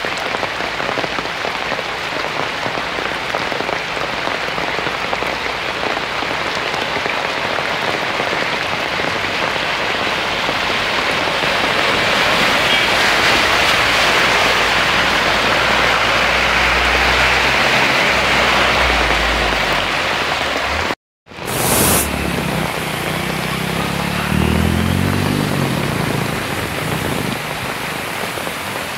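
Heavy monsoon rain pouring onto a flooded road: a steady hiss of rain and running water. Midway it grows louder, with a low rumble as a vehicle drives through the floodwater. About two-thirds in, the sound cuts out for a moment, then the rain and rushing water go on, with a low wavering hum for a few seconds.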